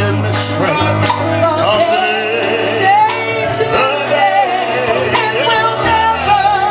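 Live gospel singing with instrumental accompaniment: voices carry the melody over steady chords and a constant bass line.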